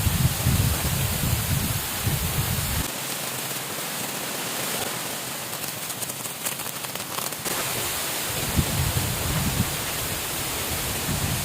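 Steady rain, with a low rumble coming and going in the first few seconds and again near the end.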